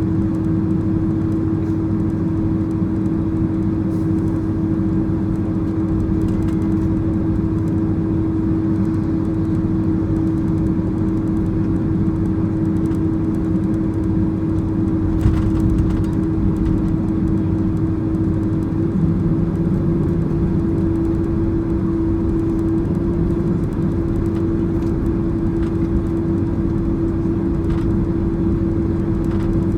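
Cabin noise aboard a Boeing 767-300ER taxiing after landing: a steady engine hum with one constant tone over a low rumble, broken by a few faint knocks.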